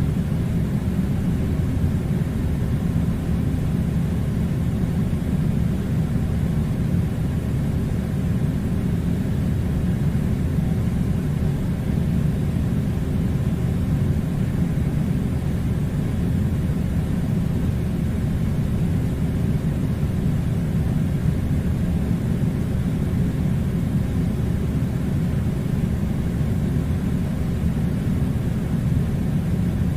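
Steady low rumbling noise, even and unchanging throughout, with no distinct events.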